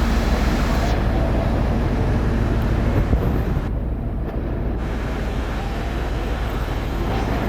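Steady low rumble of a train in a railway station, with a noisy hiss over it that briefly thins out near the middle.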